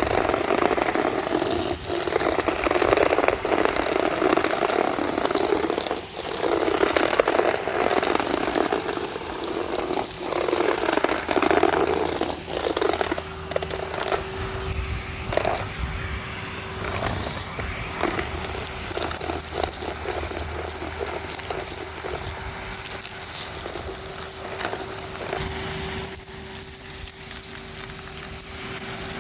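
Henry HVR 200-22 vacuum cleaner running on the street, its nozzle swept over the ground in strokes about every two seconds, crackling as it picks up grit and debris. The strokes stop about halfway, leaving the motor's steady hum.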